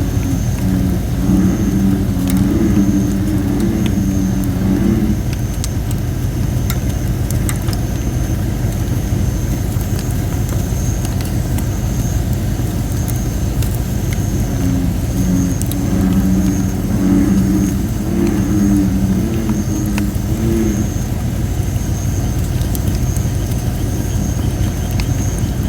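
Campfire of thin, under-dried red robin (Photinia) firewood crackling with scattered sharp pops, and a thin high hiss that comes and goes from the damp wood, over a steady low rumble. American bullfrogs give two bouts of deep repeated croaks, one near the start and another about two thirds of the way through.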